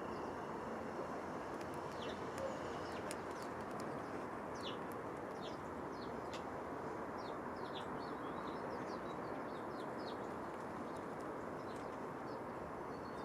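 Small songbirds giving many short, high, thin chirps that slide downward, scattered and most frequent in the middle of the stretch, over a steady background hiss.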